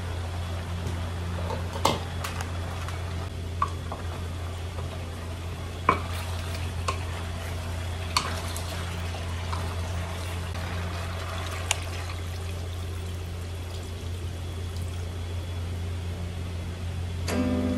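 Wooden spatula stirring chicken pieces in a stainless steel pot, with a few sharp knocks of the spatula against the pot, over a steady low hum. Near the end a white liquid is poured into the pot.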